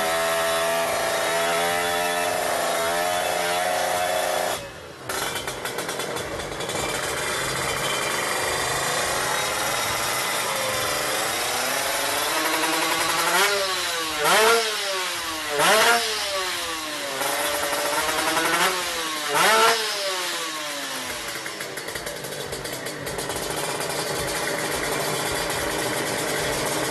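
A tuned motorcycle engine running: at first a steady idle, then, from about halfway in, five quick throttle blips whose pitch shoots up and drops straight back, before it settles to a steady run again.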